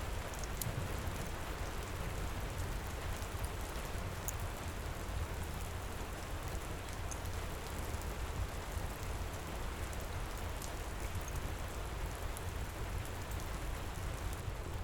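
Heavy rain pouring steadily, with a deep low rumble underneath and a few scattered sharp ticks.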